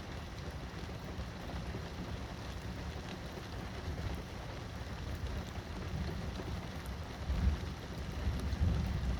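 Steady rain falling during a thunderstorm, with faint drop ticks over a continuous low rumble that swells twice near the end.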